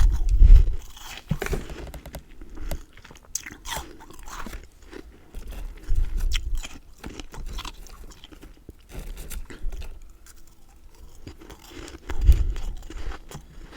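A person biting into and chewing crunchy freezer frost. Three loud bites come at the start, about six seconds in and near the end, with crisp crunching chews between them.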